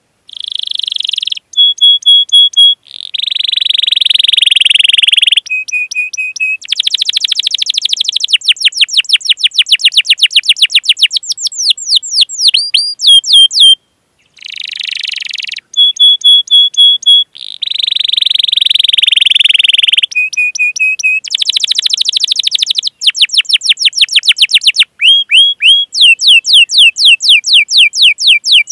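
Domestic canary singing a long song of fast repeated downward-sweeping chirps, held whistled notes and buzzy rolled trills, phrase after phrase with only short pauses.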